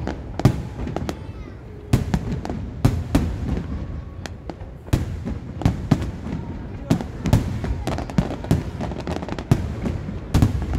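Aerial firework shells bursting in quick succession: sharp bangs about two a second, with a steady low rumble filling the gaps between them.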